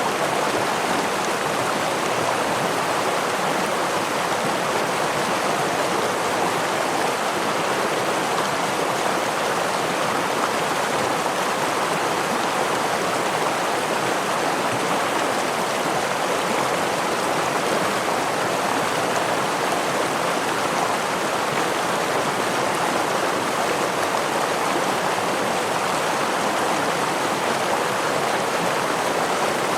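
Water of a stream spilling over a small waterfall, an even, unbroken rush with no changes.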